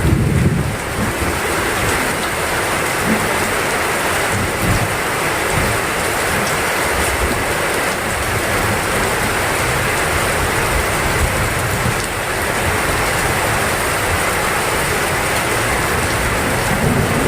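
Heavy rain falling steadily, with low rumbles near the start and again near the end.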